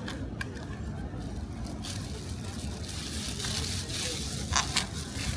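Steady outdoor background noise, mostly a low rumble like traffic, with scattered light clicks and knocks and a couple of brief higher sounds about four and a half seconds in.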